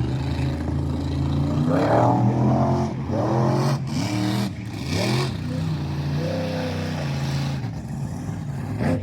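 Monster truck engine running loud, revved hard several times so its pitch climbs and falls between stretches of steadier running.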